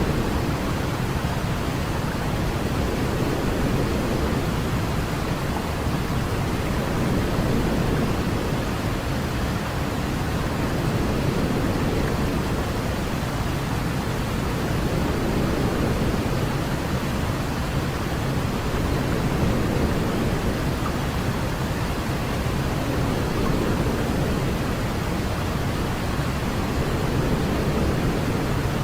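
Continuous white noise for baby sleep: an even, steady rushing hiss weighted toward the low end, so it sounds deep and soft rather than sharp, with only slight slow swells in level.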